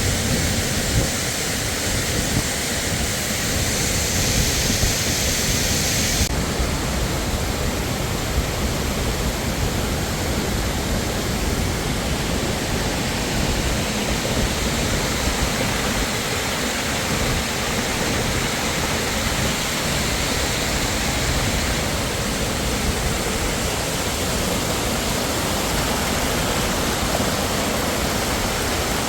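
Waterfall: falling water making a steady, loud rushing noise, with a slight shift in its hiss about six seconds in.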